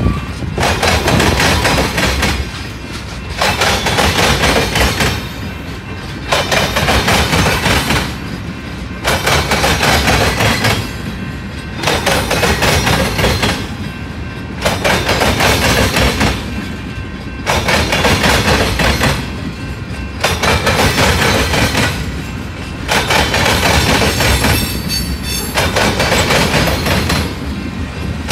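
Freight train's tank cars and covered hopper cars rolling past close by: wheels rumbling and clattering on the rails. The noise swells and dips in a steady rhythm about every three seconds.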